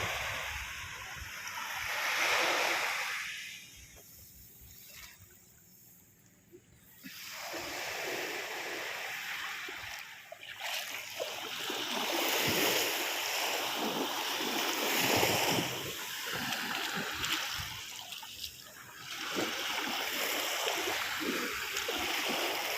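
Sea waves washing onto a beach, the surf swelling and fading, with a quieter lull about four seconds in.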